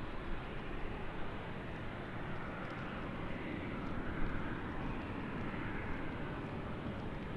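Airliner engine noise: a steady rush that swells a little in the middle and eases off again.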